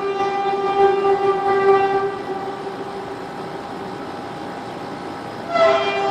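A loud, steady, horn-like drone on one held pitch with many overtones. It fades away about halfway through and swells back in just before the end.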